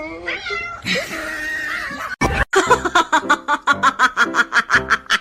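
A voice wavering in pitch, then a sharp knock about two seconds in, followed by fast, rhythmic laughter, about seven pulses a second.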